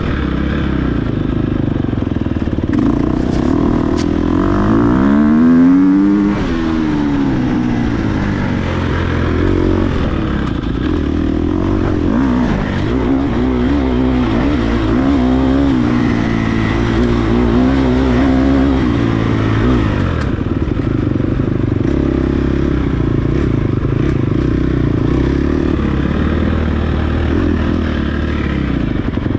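Dirt bike engine running hard at race pace, its pitch rising and falling continually as the throttle is worked, with a pronounced rev up and back down about five seconds in.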